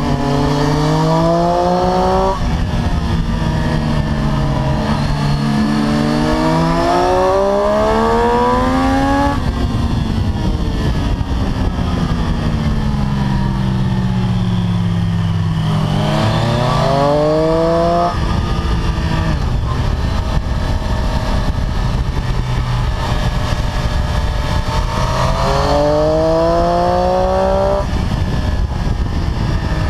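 Triumph Street Triple 765 RS inline-three engine at track speed, heard from on the bike. Its pitch climbs under hard acceleration and drops sharply at gear changes about 2, 9, 18 and 28 seconds in. Between about 9 and 15 seconds it slowly falls in pitch as the bike slows for a bend. Heavy wind rush runs underneath.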